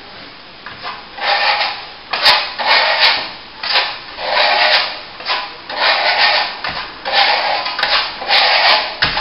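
Steel plastering trowel scraping top coat across a plasterboard joint in a run of about ten rasping strokes, roughly one a second, starting about a second in.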